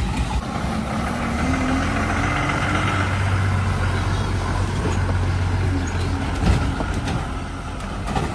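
A heavy vehicle's engine running with a deep steady hum amid road noise, with one sharp knock about six and a half seconds in.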